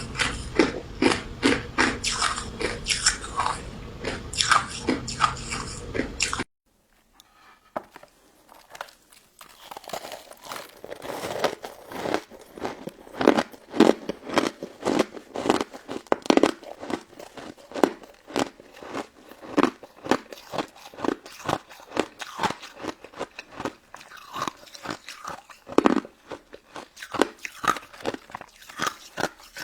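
Close-up biting and chewing of a crunchy crystal snow ice dessert: rapid, crisp crunches and crackles. The crunching stops abruptly after about six seconds, and after a moment of near silence the bites start again and go on steadily.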